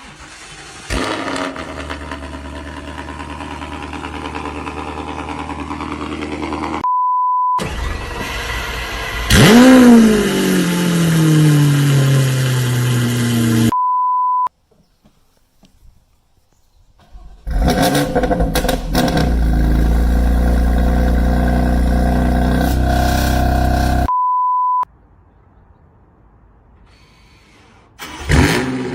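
Several car engines cold-starting one after another. Each catches and flares up in revs, then settles into a fast idle; the start about a third of the way in rises sharply and then falls away slowly. Three short, steady beeps separate the clips.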